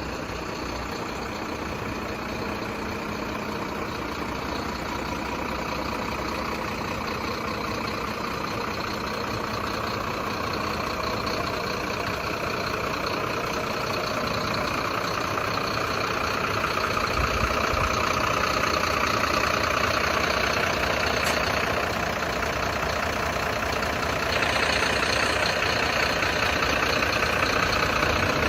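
Truck engine running steadily, growing gradually louder over the stretch.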